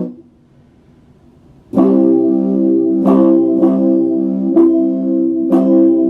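Epiphone Les Paul Special II electric guitar playing sustained chords: the chord is cut off right at the start, the guitar is silent for under two seconds, then chords are struck again about once a second and left ringing.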